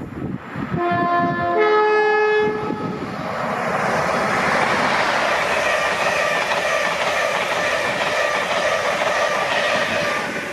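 British Rail Class 87 electric locomotive 87002 sounds its two-tone horn, a lower note then a higher one, each about a second long. Then comes the steady noise of the locomotive and its coaches passing close by at speed.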